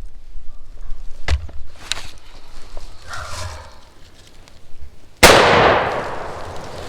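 A single shotgun blast about five seconds in, sudden and loud, dying away over a second or so: a shot at a close-in wild turkey gobbler.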